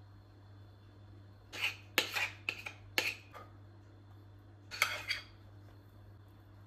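Kitchen dishes and utensils clinking and knocking together. A quick run of about five clatters comes a second and a half in, then one more short clatter about five seconds in.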